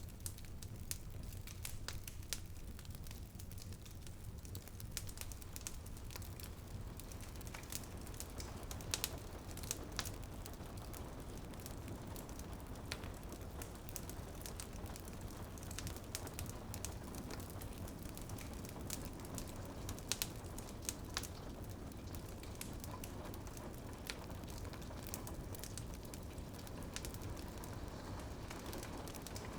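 Wood fire in a fireplace crackling, with irregular sharp pops and snaps over a low steady rumble; the loudest pops come about nine seconds in and again around twenty seconds. Rain patters on a window behind it.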